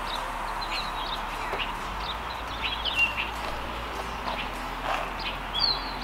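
Small birds chirping in short, quick calls again and again over steady background noise.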